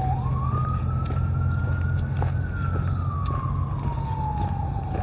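Siren wailing: one slow rise in pitch for about two seconds, a slower fall, then starting to rise again near the end, over a steady low hum.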